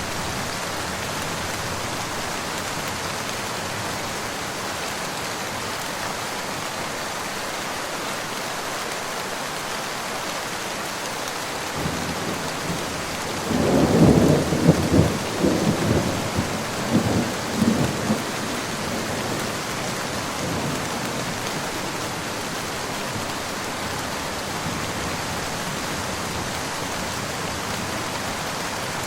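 Steady rain falling, with a roll of thunder about halfway through that rumbles in several peaks for a few seconds and then fades back under the rain.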